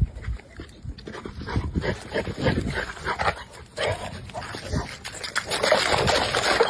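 A dog making short, irregular sounds amid knocks and rustling, with a couple of brief higher cries, one about four seconds in and one near six seconds.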